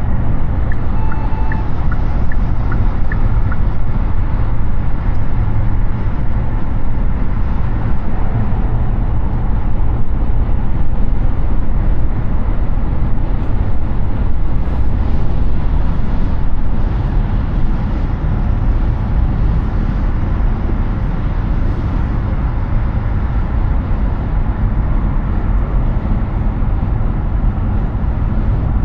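Steady road and wind noise of a Hyundai Ioniq 6 electric car cruising at highway speed, a constant low tyre rumble with no engine note. A few faint ticks sound in the first few seconds.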